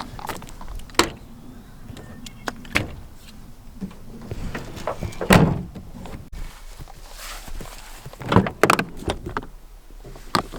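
Knocks and clunks of a Chevy Silverado pickup's door and cab being handled as someone settles in, the loudest about five seconds in and a quick pair near eight and a half seconds.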